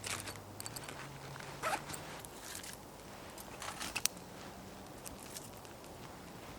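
A few brief scraping rasps, spaced a second or so apart, with quiet handling noise between them.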